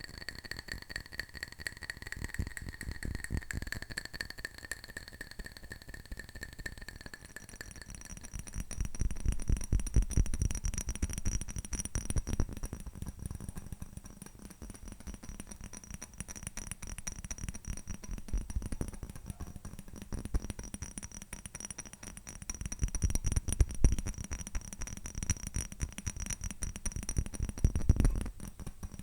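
Fast fingernail tapping on hard objects, a dense run of quick clicks with a faint high ring behind them that shifts to a higher pitch about seven seconds in. The tapping grows louder twice, in the middle and near the end.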